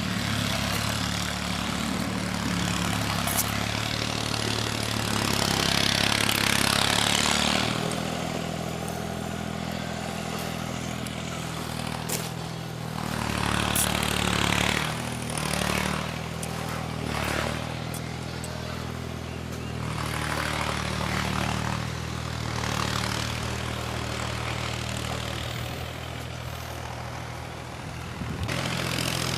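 An engine running steadily, with several surges of rushing noise over it.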